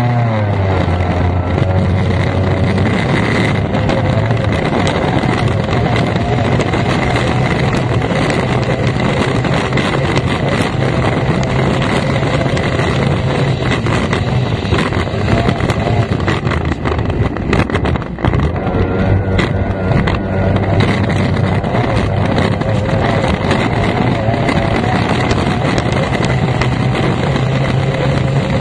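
F1 powerboat's racing outboard engine running hard at high revs, with wind buffeting the microphone. The engine note rises and falls as the boat accelerates and turns, and drops briefly about 18 seconds in.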